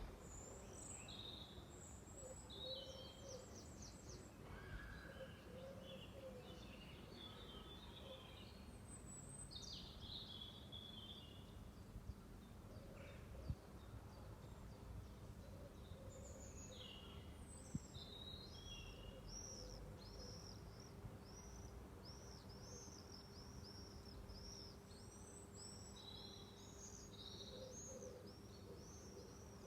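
Evening birdsong: several small birds singing faintly, with varied high chirps and trills, and from about halfway through a long run of quickly repeated high notes. Faint low calls come now and then underneath.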